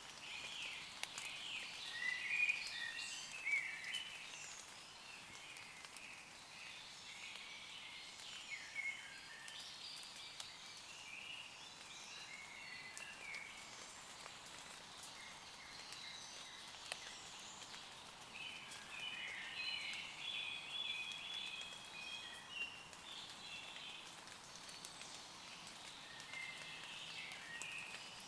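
Woodland birds singing in short bursts of chirps and trills, loudest in the first few seconds and again about twenty seconds in, over light rain falling on leaves.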